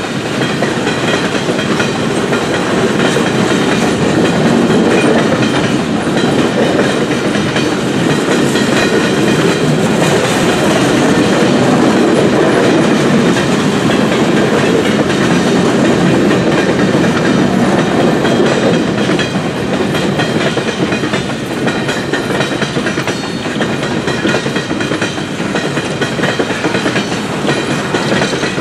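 Coal gondola cars of a long freight train rolling past, their steel wheels giving a steady rumble and clickety-clack over the rail.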